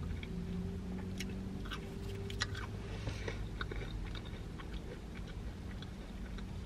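A person chewing a Burger King chicken fry close to the microphone: scattered small mouth clicks and chewing noises over a low steady hum.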